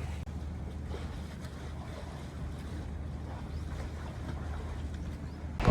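Boat engine running steadily as the boat moves over the sea, a low hum under wind and water noise. It is cut off near the end by a sharp click.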